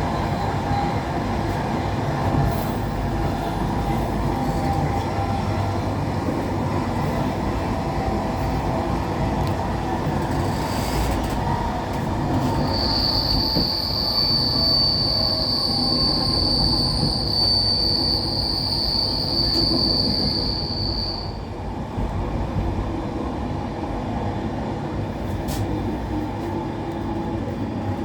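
Passenger train running, heard from inside the carriage: a steady rumble of wheels on rail. A little before the middle, a high steady wheel squeal sets in and holds at one pitch for about eight seconds before stopping.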